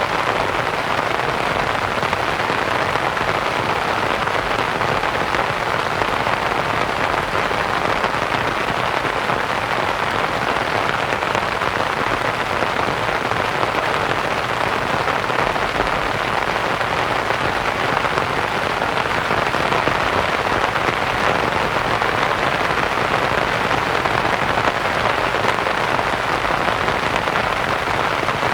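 Steady rain pattering on a canvas tent, mixed with even white noise.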